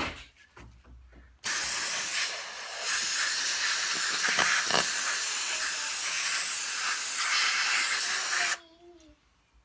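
Aerosol chain cleaner spraying onto a motorcycle chain: one long even hiss starting about a second and a half in, easing briefly about a second later, then cutting off sharply near the end.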